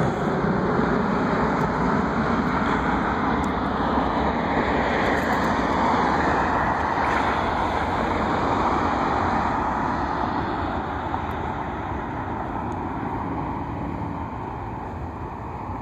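Jet noise from a passing Airbus A320 airliner: a steady, loud rushing drone that slowly fades over the last several seconds as the aircraft moves away.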